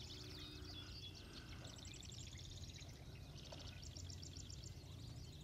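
Faint birdsong: several birds chirping, with short pitch glides and fast high trills, over a low steady hum.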